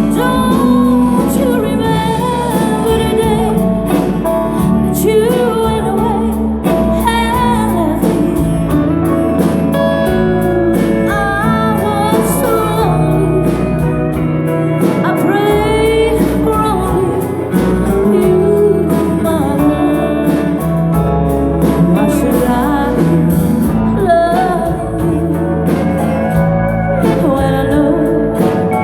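Live band playing a country-rock song with guitar, loud and continuous.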